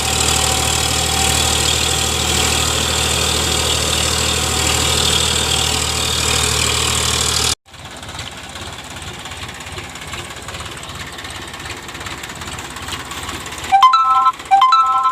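Eicher 551 diesel tractor engine running steadily, then, after an abrupt cut, idling with an even, knocking putter. Two short, loud horn beeps sound near the end.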